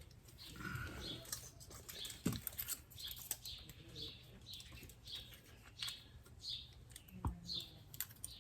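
A bird chirping over and over, short falling high notes about two a second, with a couple of faint knocks from tools being handled.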